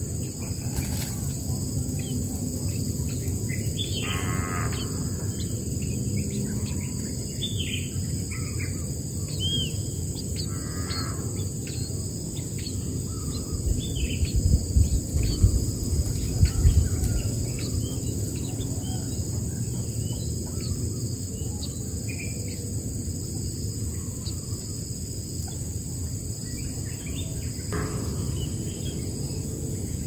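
Birds chirping, with short high calls scattered throughout and a few louder ones, over a steady low outdoor rumble and a steady high insect drone. The low rumble grows louder for a few seconds about halfway through.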